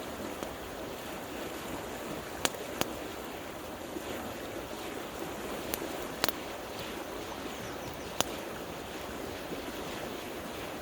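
Steady rush of a river, with about five sharp pops from a wood campfire crackling.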